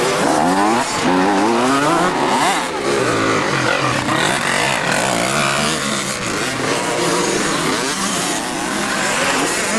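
Several motocross bikes running on a track, their engines revving up and falling back over and over, with more than one engine heard at once.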